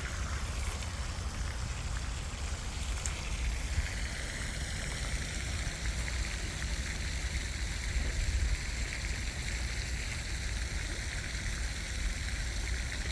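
Steady outdoor background noise: a fluttering low rumble under an even high hiss, with no distinct events standing out.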